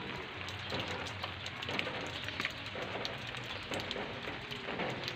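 Heavy rain falling, a dense patter of drops hitting leaves and the ground.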